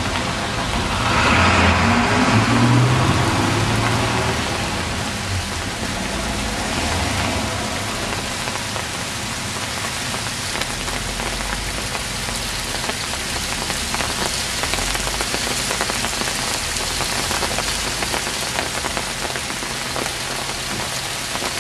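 Hail falling steadily, a dense hiss of many small ice pellets ticking on pavement and rooftops. A vehicle passes in the first few seconds.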